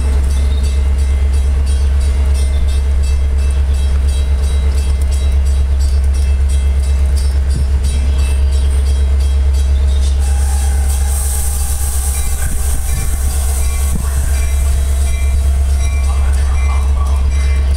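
Metra commuter train standing at the station, running with a steady, loud low rumble; a high hiss comes in about ten seconds in.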